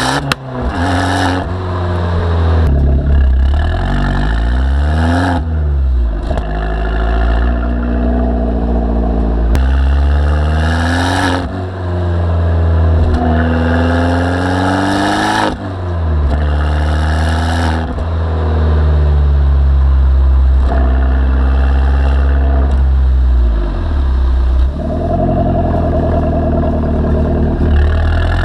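Abarth 595 Turismo's turbocharged 1.4 four-cylinder engine being driven hard, revs climbing and then dropping sharply at gear changes several times. A short hiss from the turbo's pop-off valve comes at several of the shifts.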